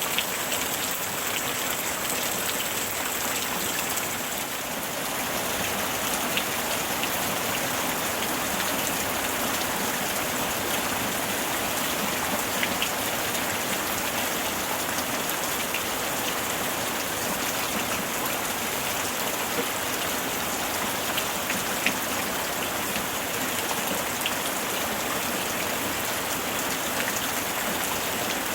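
Steady summer rain falling, a constant hiss with scattered individual drop ticks.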